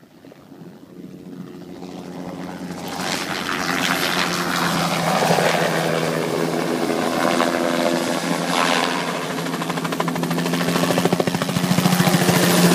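Crop-spraying helicopter flying in toward the listener, its engine and rotor growing louder over the first few seconds, then staying loud with a fast, even blade chop.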